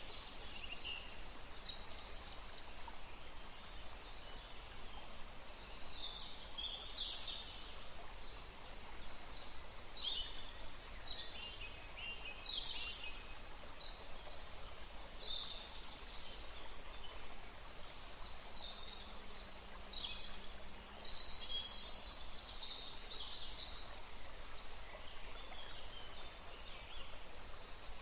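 Woodland ambience: several songbirds singing and calling in short high-pitched phrases throughout, over a steady faint background hiss.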